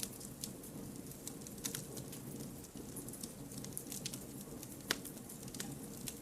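Wood campfire burning: a steady low rush of flame with scattered crackles and small pops of the burning logs, one sharper pop about five seconds in.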